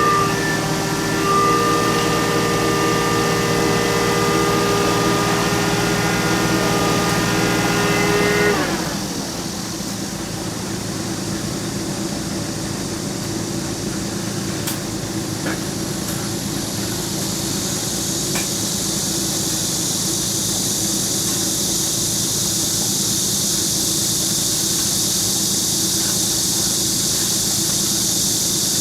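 A vehicle engine revs up and is held at high speed, then drops back about eight and a half seconds in. A steady lower rumble follows, with a hiss that grows louder in the second half.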